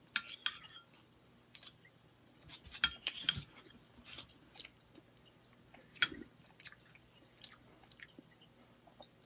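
Close-up chewing and wet mouth smacks of a person eating a soft meatball in bread with yogurt, a scatter of short clicks, with a sharp one about six seconds in.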